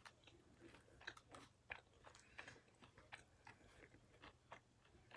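Faint close-up chewing of battered fried calamari: soft, irregular crunches and wet mouth clicks.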